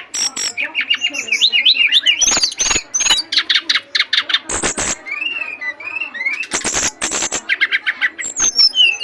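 Caged songbird in breeding condition singing hard in full song against a rival: a loud, rapid run of trills, sharp chips and whistled notes with hardly a pause.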